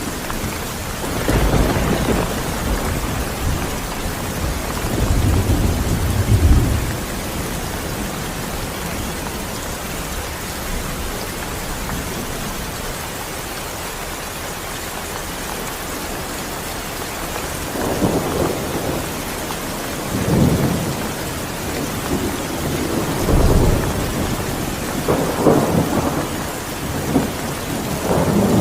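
Steady rain falling, with several low rolls of thunder: one beginning about a second in, another at about five to seven seconds, then a cluster of rumbles over the last ten seconds.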